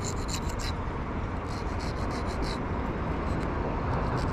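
Steady rushing outdoor background noise by a river. Over it come a few short bursts of light scratching and clicking, like clothing rubbing on a chest-worn camera.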